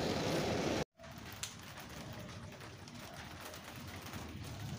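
Heavy rain pouring down in a loud, dense hiss that cuts off abruptly about a second in. After that, a quieter steady rain with scattered drips.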